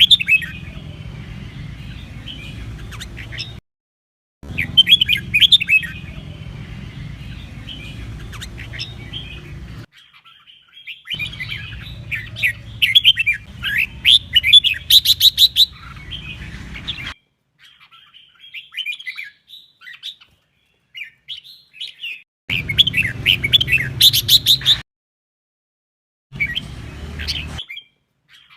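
Red-whiskered bulbul song: fast runs of bright chirping and warbled notes. They come in stretches of a few seconds that cut off abruptly into dead silence and start again, over a low background hum.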